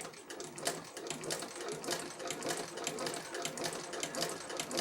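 Sewing machine in a shoe repair shop stitching, a rapid rhythmic clatter of several needle strokes a second that starts right at the beginning and keeps going.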